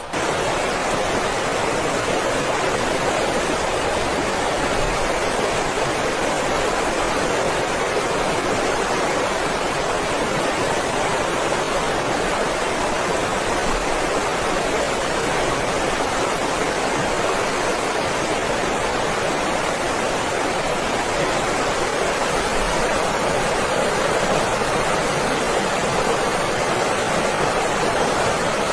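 Blizzard wind: a steady, even rushing noise with no gusts or breaks, cutting in abruptly at the start.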